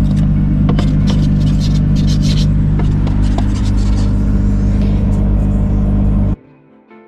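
Car engine idling with a steady low hum, heard from inside the cabin, while strokes scrape across the frosted windscreen for the first couple of seconds. The hum cuts off suddenly about six seconds in, and faint mallet-percussion music follows.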